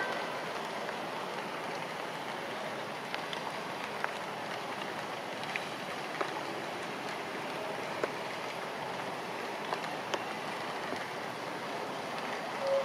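Steady rain falling on grass and leaves, with scattered sharp ticks of single drops.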